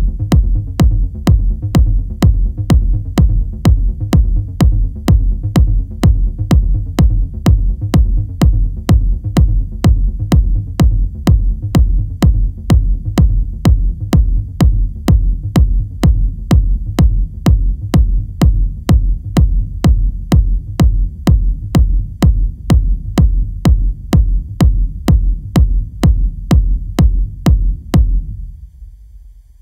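Minimal techno with a steady four-on-the-floor kick drum about twice a second over deep bass. The beat stops near the end and the bass fades out.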